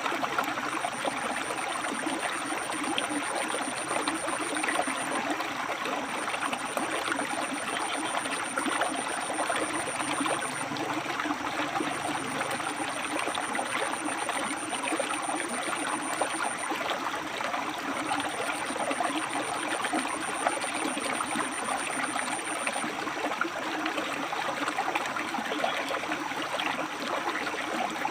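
River water flowing over and between rocks: a steady, even rush of running water.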